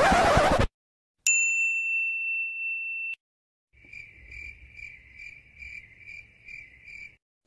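A run of separate sound effects: a short burst of noise, then a single bright ding that rings for about two seconds and cuts off, then crickets chirping, about eight chirps over three seconds.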